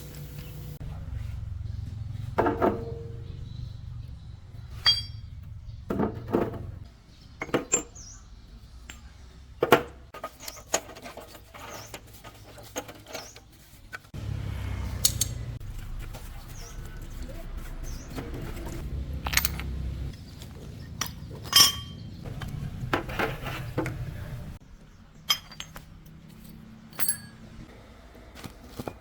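Metal tools and parts clinking and knocking at irregular intervals during hand work on a truck axle, over a low rumble that comes and goes.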